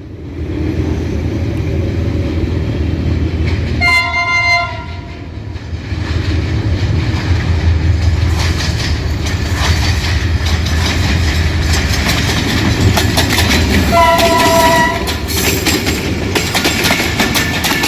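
Diesel locomotive HGMU-30R 8220 hauling a passenger express past, its engine drone building and staying loud, with a short two-tone horn blast about four seconds in and another near the end. From about halfway, wheels clatter over the rail joints as the coaches roll by.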